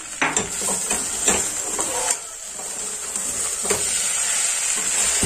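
Potatoes, onions and spice masala frying in oil in a steel pressure cooker, a steady sizzle, with a metal spatula scraping and knocking against the pot several times as the mix is stirred.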